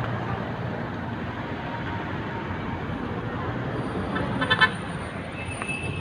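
Steady wind and road noise of a moving ride downhill, with a short vehicle horn toot about four and a half seconds in.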